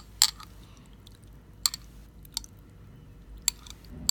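A handful of sharp clicks and taps, scattered a second or so apart: a bottle and cup knocking together as thick bird's nest concentrate is poured out into the cup.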